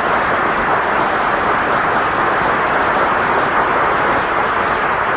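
Studio audience applauding steadily, heard through the narrow, muffled sound of an early-1950s radio broadcast recording.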